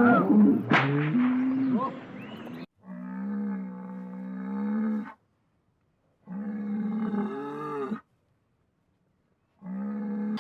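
Overlapping honking calls from a flock of geese or ducks. After about two and a half seconds these give way to three long, drawn-out, steady calls from a large animal, each cut off by silence, the last one short.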